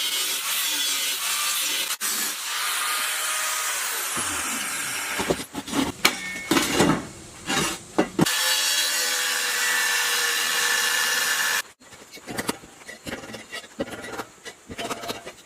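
Workshop tools grinding or cutting, in a run of short clips: a steady, loud rasping broken by a few irregular knocks in the middle. A little before the end it drops to quieter scattered tapping and scraping.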